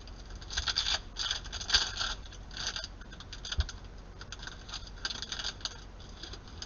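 Glossy trading cards being slid and flipped through by hand, a bunch of crisp clicks and rustles every half second to a second as each card is moved to the back of the stack.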